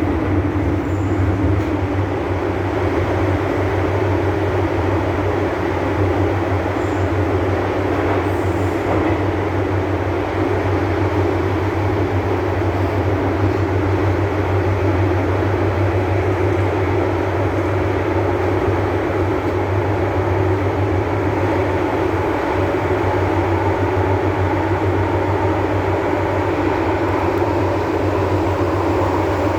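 MTR M-Train metro car running at a steady speed: a continuous rumble of wheels on rail with a steady low hum, unchanging throughout.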